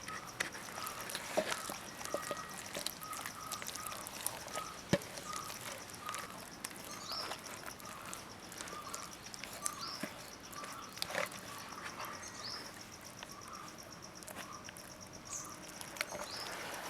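Faint bird chirping: a short call repeated again and again, with a few higher chirps now and then and scattered soft clicks.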